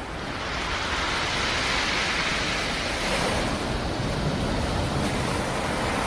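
Sea surf: a wave breaking and washing up the shore, its rush swelling about half a second in and holding strong.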